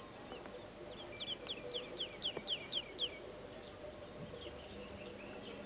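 A songbird singing a run of about eight quick down-slurred whistled notes, about four a second, then a few scattered chirps, over faint outdoor ambience.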